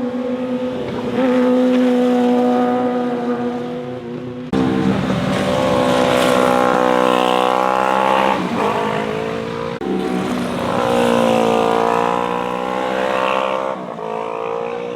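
Motorcycle engines passing through corners, their pitch rising and falling with throttle and gear changes. The sound switches abruptly twice, about a third and two-thirds of the way through, to a different bike passing.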